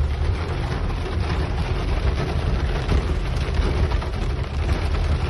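Heavy rain pattering on the roof of a truck, heard from inside the cab, over the steady low rumble of the truck driving.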